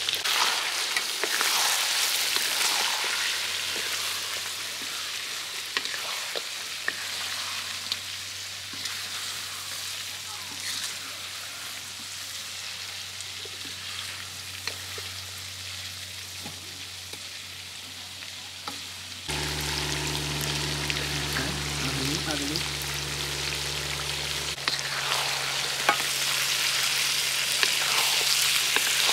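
Chicken curry sizzling and frying in a pan, stirred with occasional clicks and scrapes of the utensil. About two-thirds of the way in, a steady low hum starts suddenly and the sizzle grows louder.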